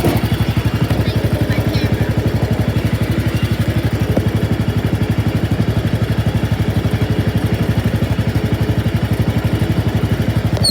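Wheel Horse garden tractor's 16 hp Kohler engine idling steadily, with an even, rapid beat of firing pulses.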